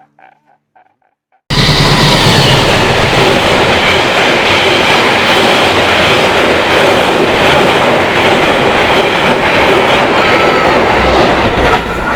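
A train running on the rails: a loud, steady rumble and clatter that starts suddenly about a second and a half in.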